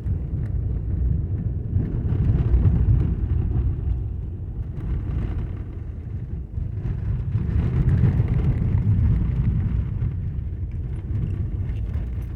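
Steady low rumble of a car on the move, heard from inside: road and engine noise, swelling and easing slightly.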